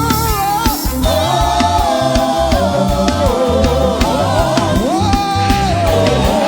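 Live gospel praise music: a band with bass and drums playing under voices singing together.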